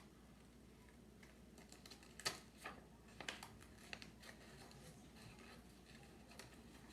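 Scissors cutting paper: a handful of faint, sharp snips between about two and four and a half seconds in, the first the loudest.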